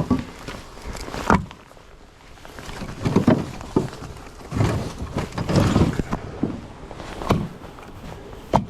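Split firewood being handled and tossed, pieces of wood clunking against each other. There is a sharp knock about a second and a half in and another near the end.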